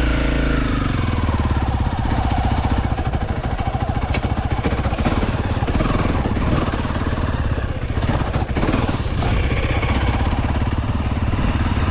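Honda CRF300L dirt bike's single-cylinder four-stroke engine running in a low gear under load on a rocky trail, its revs rising and falling, with a sharp knock about four seconds in.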